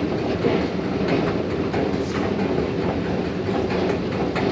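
New York City Subway train running on its rails: a steady rumble with faint brief clicks.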